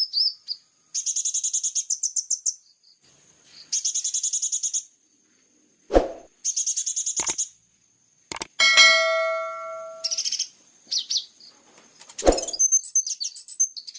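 Kolibri ninja sunbird singing fast, high rattling trills in bursts of about a second and a half each. This is the rapid 'tembakan' (shooting) song of a bird in full song. A few sharp knocks come partway through, and a ringing metallic ding sounds about nine seconds in.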